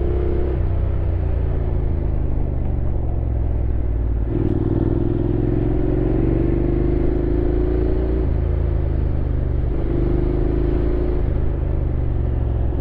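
Honda X-ADV 750's parallel-twin engine running under way, its note climbing slowly in pitch and then stepping abruptly to a new pitch several times as the rider rolls the throttle and changes gear.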